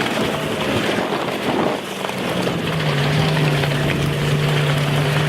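Forklift engine running steadily, its pitch wavering about two seconds in and then settling lower.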